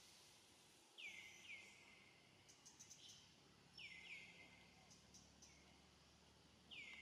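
Faint background hiss with a bird calling: short high notes that slide downward, mostly in pairs, about a second in, near four seconds and again at the end.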